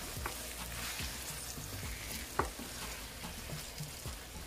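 Chicken liver and onions frying and sizzling steadily in a pan as they are stirred, with a few brief knocks of the stirring utensil against the pan.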